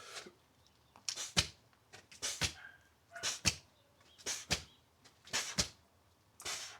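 A person breathing hard in a steady rhythm through exercise reps: six sharp double puffs of breath, about one a second.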